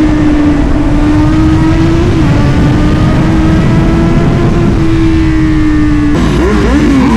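Superbike engine pulling at a steady high pitch while riding, then revving up and down in quick swings about six seconds in, with heavy wind rumble on the microphone.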